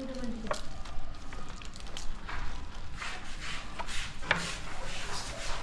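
Motorbike being scrubbed by hand: repeated rubbing strokes with a few light knocks and clicks, and brief squeaks.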